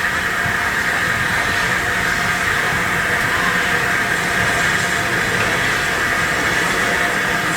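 Steam locomotive, heard as a steady, even rushing noise with no distinct exhaust beats.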